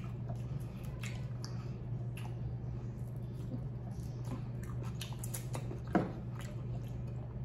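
Close-up chewing and biting into barbecued rib meat, with wet mouth clicks and smacks, one louder smack about six seconds in. A steady low hum runs underneath.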